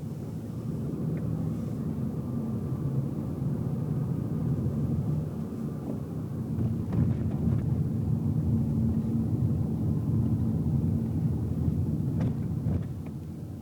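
Car driving, heard from inside the cabin: a steady low engine hum and road rumble, a little louder from about halfway in, with a few light clicks or knocks.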